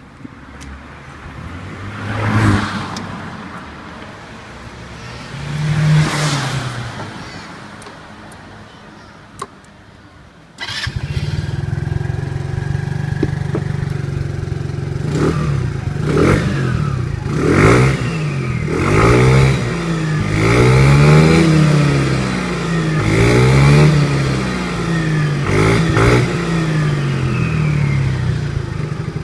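A SYM RV125i scooter's single-cylinder four-stroke engine breathes through a JWLSports TypeN semi-straight aftermarket muffler with a low, thick exhaust note. It is idling and being revved with no load toward 9000 rpm. It gives two slow revs, then becomes suddenly louder about a third of the way in, and follows with a run of quick rev blips.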